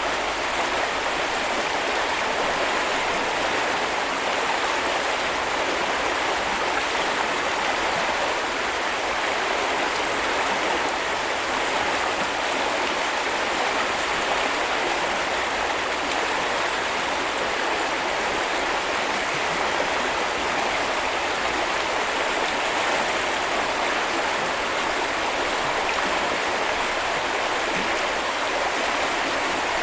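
A small river or stream flowing, a steady rushing babble of water.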